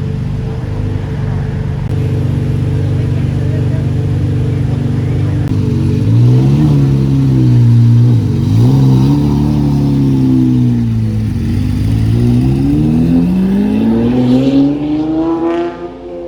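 Car engine running steadily, then revved up and down several times, with sharp drops in pitch. Near the end it climbs in one long rise and then fades away.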